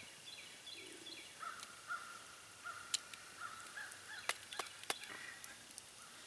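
Faint birds calling in the woods: quick chirps at first, then a run of short repeated calls. A few sharp clicks come about three seconds in and again three times near the end.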